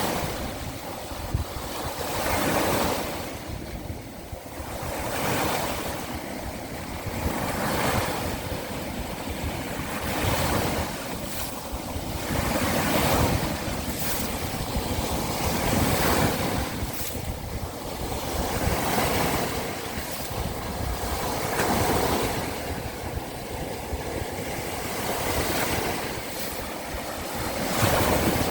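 Waves of the Sea of Azov washing in and breaking on the shore, one swell every two to four seconds, with wind buffeting the microphone.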